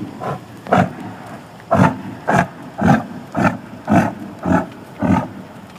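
Pack yak grunting in a steady rhythm: short, repeated grunts, about two a second.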